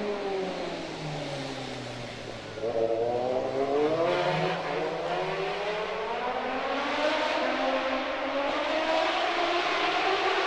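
Racing motorcycle engines at the Macau Grand Prix street circuit: one engine note falls away over the first couple of seconds, then a louder bike comes in and revs up, climbing in pitch through the gears.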